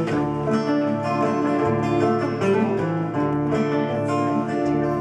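Acoustic guitar playing the instrumental introduction of a folk song, plucked notes and chords ringing in a steady rhythm.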